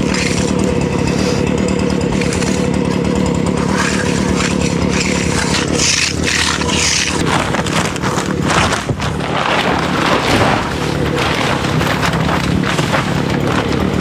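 A small engine running steadily, with a cluster of short scraping and knocking noises over it about halfway through.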